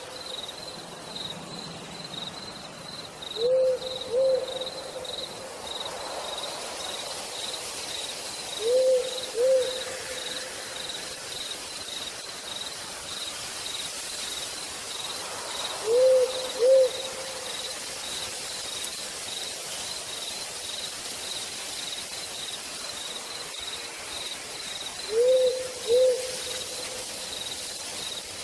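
An owl hooting in pairs, two short hoots close together, four times over, over a steady pulsing high chirping of night insects and the even hiss of rain falling in a forest.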